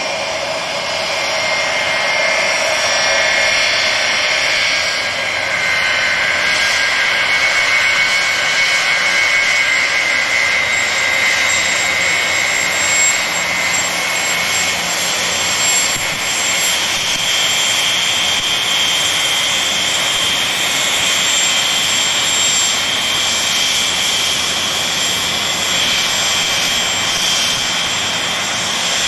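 Pratt & Whitney JT3D turbofans of a four-engine jet airliner running loud and steady: a broad rush with a high whine over it. About halfway through, the whine shifts to a higher pitch.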